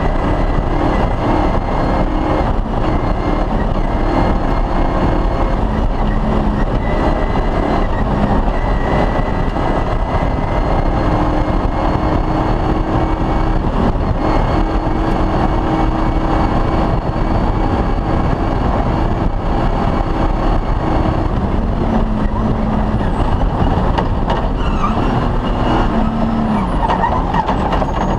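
Off-road rally car's engine running hard through a stage, with a dense, loud rumble of the drive; the engine note rises and falls with throttle and gear changes.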